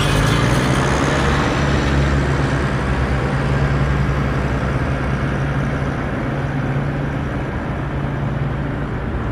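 A steady engine-like rumble that runs evenly, with no change in pitch.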